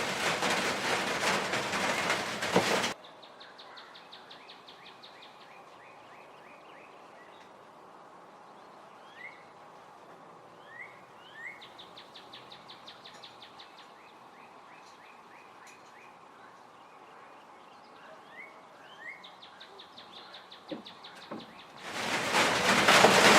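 A loud, noisy stretch of a few seconds cuts off abruptly to a faint background, over which small birds sing: repeated fast trills and short rising chirps. Loud noise returns near the end.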